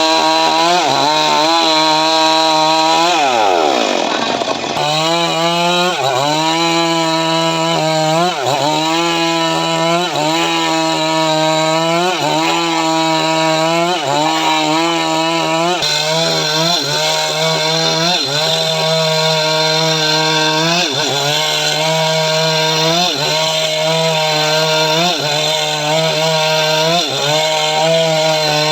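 Stihl MS 382 two-stroke chainsaw running at high revs while ripping dry mahogany. Its pitch sags and recovers every second or two as the cut loads it, and about three seconds in it bogs down deeply for a second or so before picking up again.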